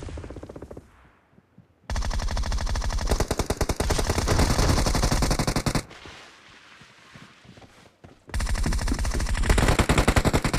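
Rapid automatic gunfire from a shooter video game: the fading tail of one burst, then two long sustained bursts, one starting about two seconds in and one about eight seconds in.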